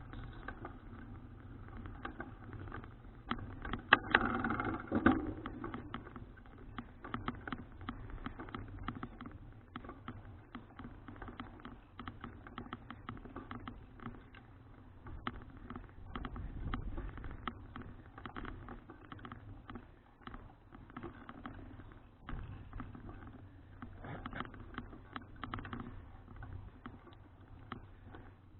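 Bicycle ride noise picked up by an action camera on the bike: irregular rattling clicks with a steady low rumble, and a louder clatter about four seconds in.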